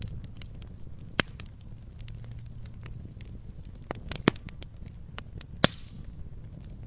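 Wood campfire burning with a low steady rumble, crackling with small ticks and sharp pops: one about a second in, two around four seconds, and the loudest a little later.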